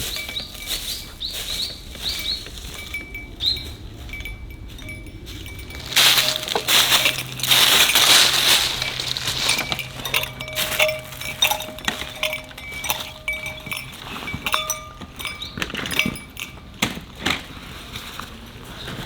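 Repeated light clinks and knocks of glass and camp gear being handled, with a louder stretch of hissing noise about six to nine seconds in.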